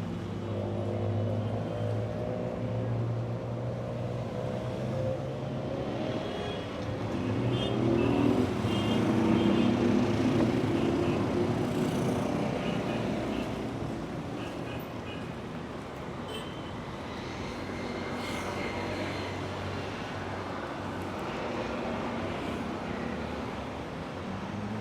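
Busy street traffic: car engines running close by over a steady background hum of traffic, with one vehicle passing loudest about a third of the way through.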